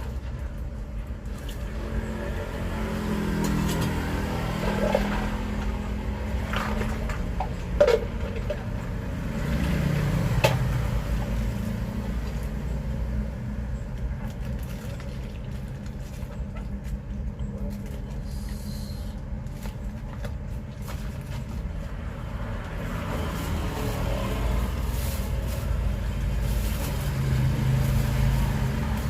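Road traffic passing: vehicle engines swell and fade over a steady low rumble. A couple of sharp knocks stand out in the first half.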